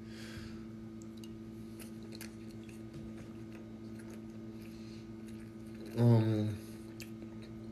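A man chewing a mouthful of breakfast, with faint clicks of a fork on a plate, over a steady low electrical hum. About six seconds in comes a short, loud hummed "mm" from him.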